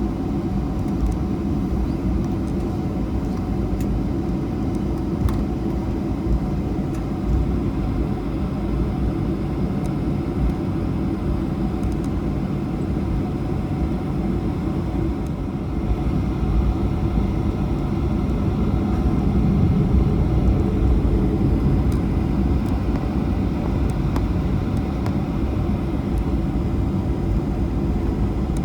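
Boeing 737-800 cabin noise heard from a forward seat: the CFM56 engines and airframe give a steady low rumble that grows somewhat louder about halfway through, as the jet readies for takeoff.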